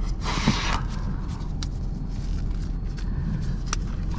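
Steady low rumble of an idling vehicle, with a short hissing rush lasting about half a second near the start and two small sharp clicks later on.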